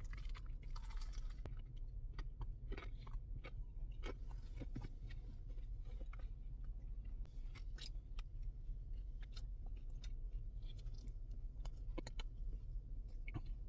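A person biting into and chewing a crunchy fried chicken sandwich with crispy onions and bacon: many faint, irregular crunches and crackles, over a low steady hum.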